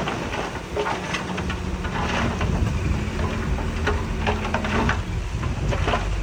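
Heavy diesel construction machinery running, with loose stone clattering and crackling as it is moved.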